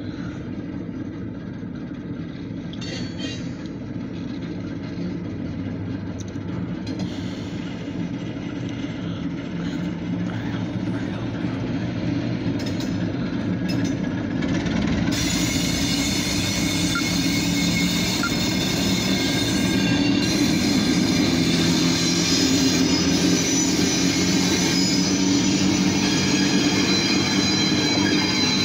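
Freight train with diesel locomotive and grain hopper cars rolling past, its low engine hum and rail noise growing steadily louder. About halfway through, a high-pitched squeal of steel wheels on the rail joins in and holds.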